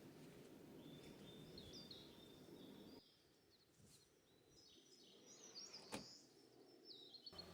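Small birds chirping with short repeated calls over a faint, steady background hiss, with one sharp click about six seconds in.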